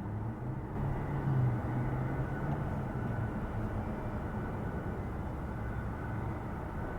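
Steady, distant jet engine noise from a Boeing 767-300 at taxi power, a low hum that swells a little about a second in.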